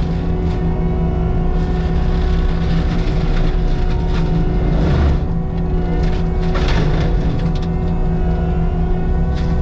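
Caterpillar heavy-equipment diesel engine running steadily, with a constant whine over the engine drone and short swells of hiss about every two to three seconds.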